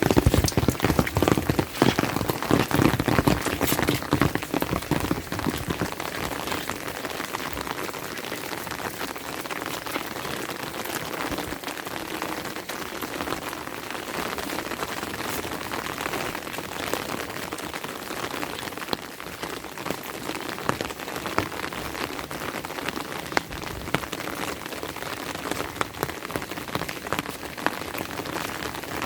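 Steady rain, made up of many separate drop hits, louder for the first few seconds and then even.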